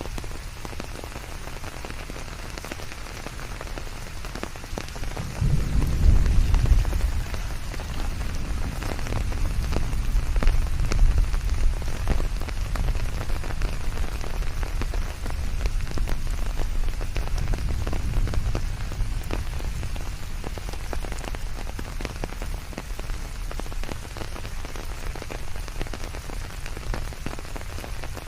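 Steady heavy rain, an even hiss with many individual drops ticking. About five seconds in, a low rumble swells up, then slowly fades away over the next fifteen seconds or so.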